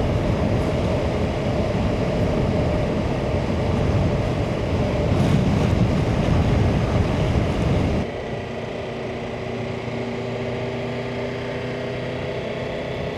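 Motorcycle riding at speed: steady rush of wind and engine noise, which about eight seconds in cuts abruptly to a quieter, steady engine hum.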